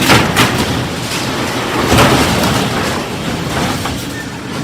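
Loud, steady rumble and clatter of a moving train, with a few sharp knocks, the strongest at the start and about two seconds in.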